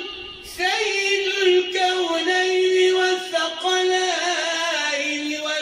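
A man chanting Islamic supplications (ibtihalat) solo, holding long, ornamented notes; the voice breaks off briefly and comes back in just before a second in.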